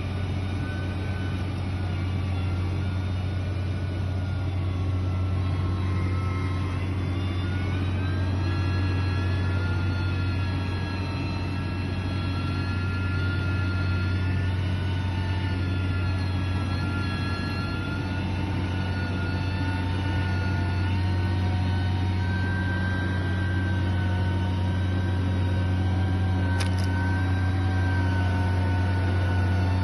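Heavy construction machine's engine running steadily with a deep hum and a higher whine that rises about seven seconds in and then wavers. There is a short click a few seconds before the end.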